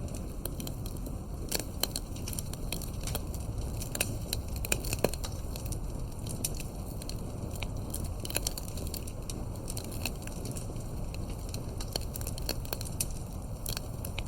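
Wood fire crackling, with irregular pops and snaps over a low steady rumble. The loudest snaps come about four to five seconds in.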